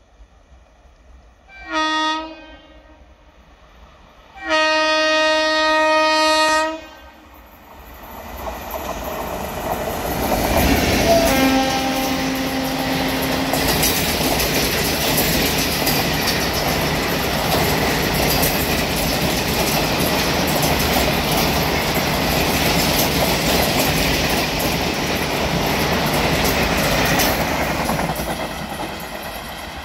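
Indian Railways express locomotive sounding its horn, first a short blast and then a longer one of about two seconds. The train then passes at speed with a loud rush and wheels clattering over the rail joints for about twenty seconds, with a lower horn note a few seconds into the pass.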